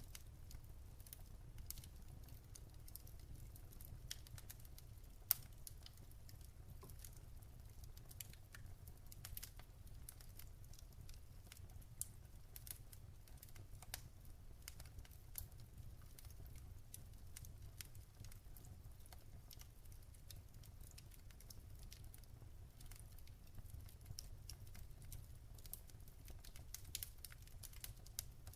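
Wood fire crackling in a fireplace: irregular sharp snaps and pops over a low steady rumble, with one louder pop about five seconds in.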